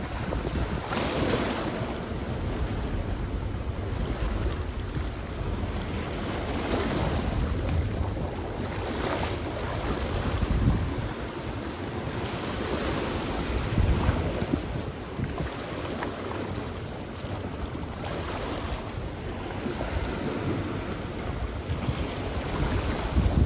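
Sea waves washing onto the beach in repeated swells every few seconds, with wind buffeting the microphone in low gusty rumbles.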